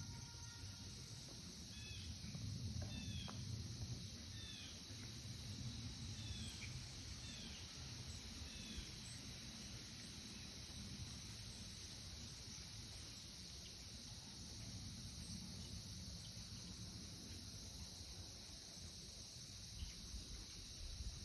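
Faint, steady chorus of crickets, a continuous high-pitched trill. From about two seconds in to about nine seconds, a run of roughly eight short bird calls, each falling in pitch, sounds over it, with a low rumble underneath.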